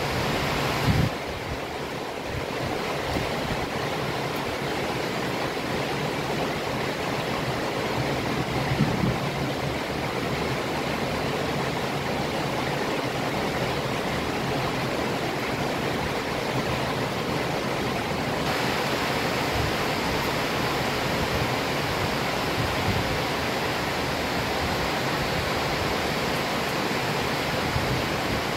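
Heavy tropical rain falling steadily, a dense even hiss. Brief low bumps about a second in and again around nine seconds.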